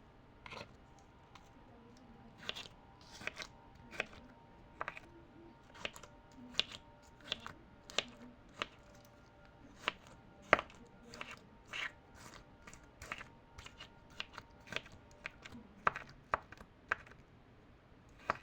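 Close-miked ASMR-style tapping and clicking: irregular sharp taps, about one or two a second, over a faint steady hum.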